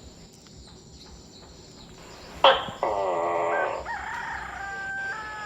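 A rooster crowing: one long call starting sharply about halfway through, its pitch stepping up and holding to the end.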